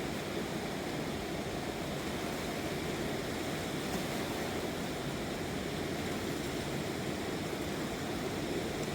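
Rushing water of a rain-swollen river in flood, a steady unbroken rush.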